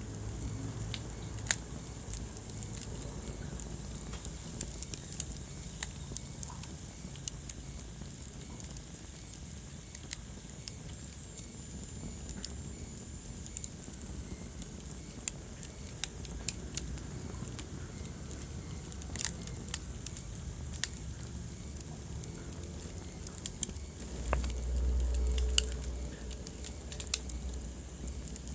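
Wood fire crackling in a fireplace: irregular sharp pops and snaps over a steady low rumble of burning. Near the end a louder low rumble swells for about two seconds.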